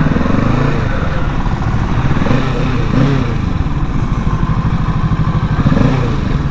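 Kawasaki Ninja 650 parallel-twin motorcycle engine running under way, with a steady throbbing note that rises and dips slightly a few times as the throttle changes.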